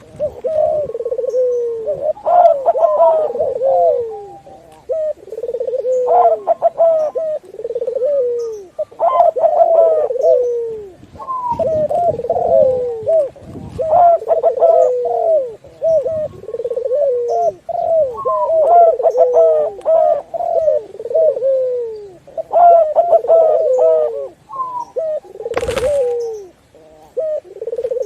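Doves cooing over one another, a mix of zebra dove, spotted dove and barbary dove calls, in repeated low coo phrases every couple of seconds. Near the end there is a brief burst of noise.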